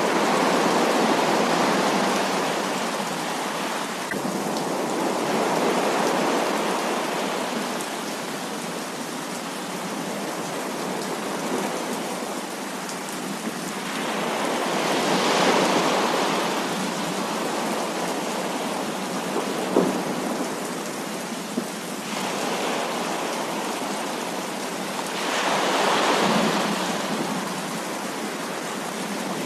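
Heavy rain falling steadily, with thunder rolling in slow swells: about a second in, again a few seconds later, around the middle, and near the end. A couple of short sharp ticks stand out about two-thirds of the way through.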